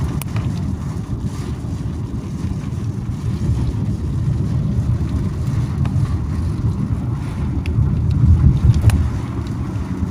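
Steady low rumble of a moving car, with wind buffeting the microphone and a few faint clicks.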